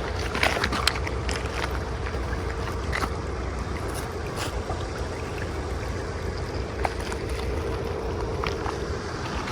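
Tractor engine running steadily over rushing floodwater, with a few sharp cracks and knocks.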